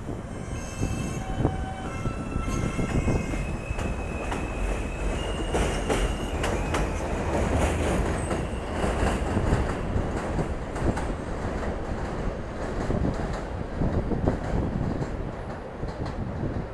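New York City subway F train running through the station. Several brief, steady high squeals from the wheels come in the first few seconds, then the train rumbles on with rapid clicks of the wheels over the rail joints.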